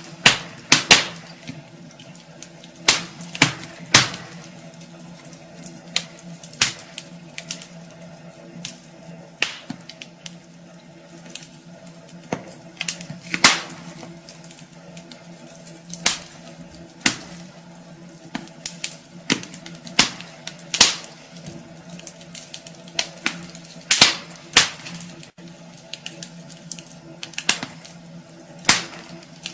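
Wood fire burning in a fireplace: irregular crackling from the logs, with a sharp pop every second or two, over a faint steady low hum.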